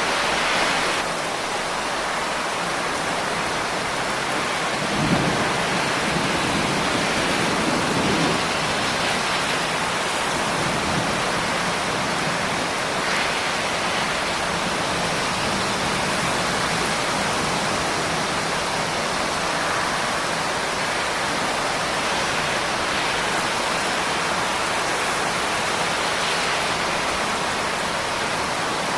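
Steady rain falling with an even hiss. A low rumble of thunder comes in about five seconds in and lasts a few seconds.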